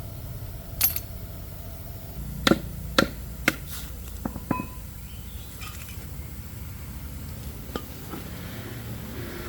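Metal tools and parts clinking and knocking in a workshop: about six sharp metallic strikes in the first half, one ringing briefly, then a few lighter ticks, over a steady low hum.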